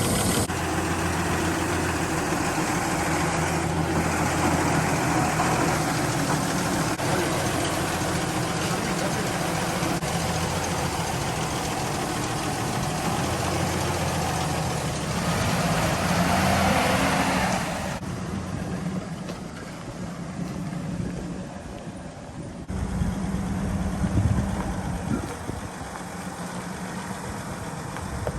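Toyota FJ45 Land Cruiser engine running with a steady low hum. Past the middle it grows louder for a couple of seconds, then drops away suddenly to a quieter running sound.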